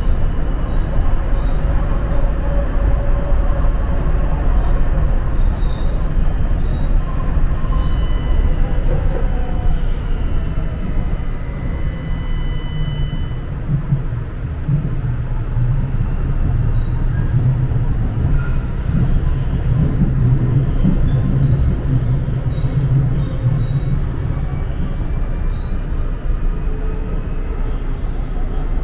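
St. Louis MetroLink light-rail train running, heard from inside the car: a steady rumble of wheels on the rails, with faint thin squealing tones that glide up and down.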